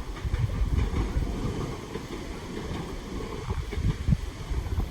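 Low, uneven rumble of wind buffeting the microphone, mixed with the running noise of trains on the line.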